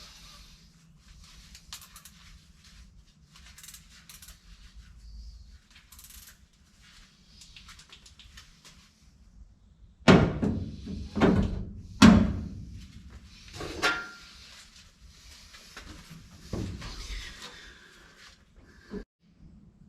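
Hands working on a 1955 Chevy 210 door and its window mechanism: light scraping and clicking, then a run of loud knocks and thumps about halfway through, followed by more scraping and a last click near the end.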